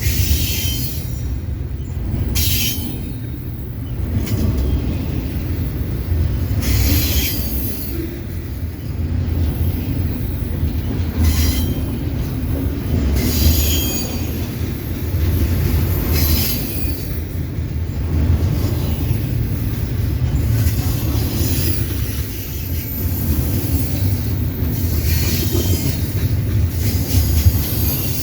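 Freight cars of a CPKC train rolling past with a steady low rumble. Short high-pitched wheel squeals come and go every few seconds.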